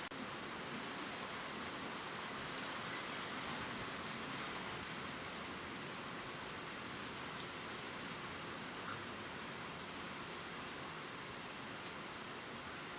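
Steady gentle rain falling on leaves: an even hiss with faint scattered drop ticks.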